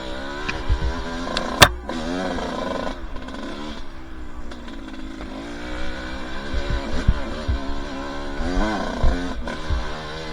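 Two-stroke dirt bike engine revving up and down as the throttle is worked over the trail. A sharp knock comes about one and a half seconds in.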